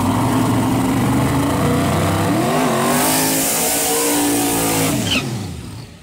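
Fox-body Ford Mustang drag car's engine running loud and steady, then revving up, its pitch rising, as the car launches on its pass. The sound drops and fades after about five seconds as the car pulls away down the track.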